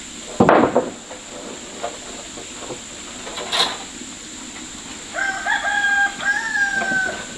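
A rooster crows once, a single held call of about two seconds near the end. A loud thump comes about half a second in, and a sharper knock in the middle.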